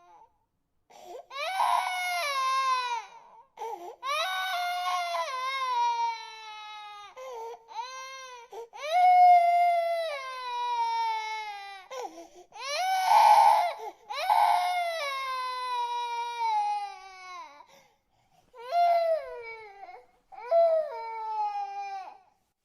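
Baby crying: a string of wails, each sliding down in pitch, broken by short catches of breath, with a brief pause near the end.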